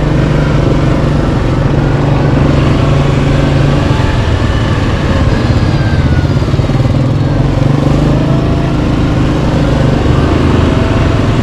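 Yamaha Kodiak 700 ATV's single-cylinder engine running steadily while riding, its pitch shifting only slightly.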